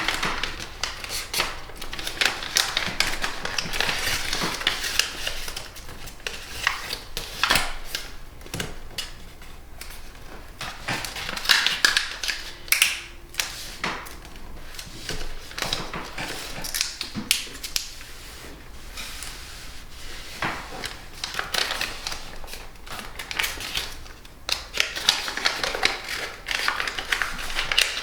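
Sheet of origami paper being folded and creased by hand into petal folds: irregular crinkling, rustling and sharp creasing clicks.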